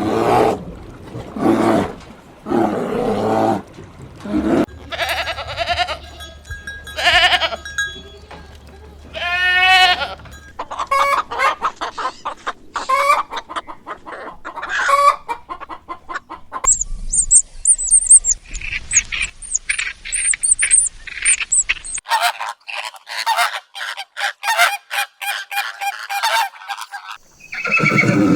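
Farm animals calling one after another, the animal changing every few seconds: long wavering calls at first, then quick runs of short calls, with high thin chirping near the middle.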